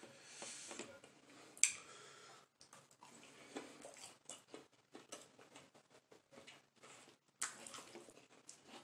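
Faint chewing and lip-smacking of a person eating a chicken nugget: irregular small clicks and wet mouth noises, with one sharper click about a second and a half in.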